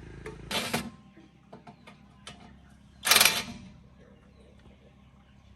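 Mechanical work noises: scattered small clicks and knocks, with two louder rasping bursts, one about half a second in and one about three seconds in. A low steady hum fades out near the start.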